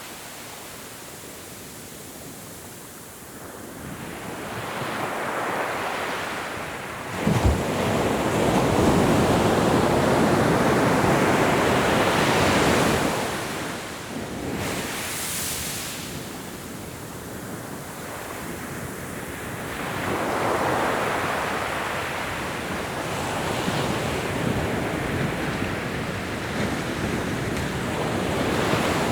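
Ocean surf: waves rising and falling in slow swells. One wave breaks sharply about a quarter of the way in and washes loudly for several seconds, and smaller waves follow.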